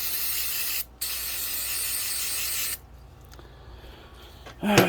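Aerosol brake cleaner spraying in two long bursts, with a short break about a second in, stopping shortly before three seconds in.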